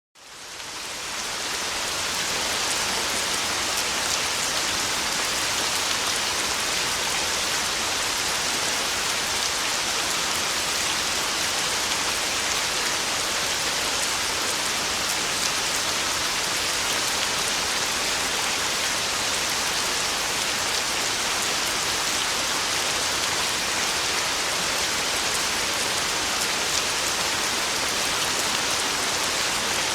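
Heavy rain pouring steadily, a dense hiss of many drops, fading in over the first couple of seconds and then holding even.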